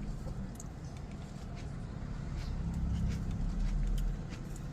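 A low steady rumble that swells about three seconds in and drops off just after four seconds, with faint light clicks and taps over it.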